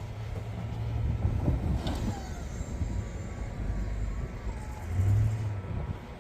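Plow truck engine running steadily while clearing snow, its low drone swelling briefly about five seconds in.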